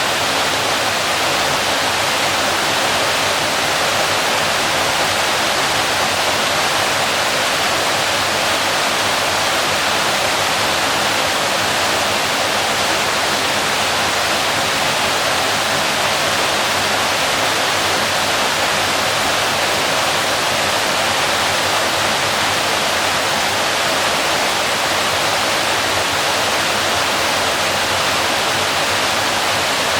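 Waterfall: water falling and crashing in a steady, loud, unbroken rush with no change over time.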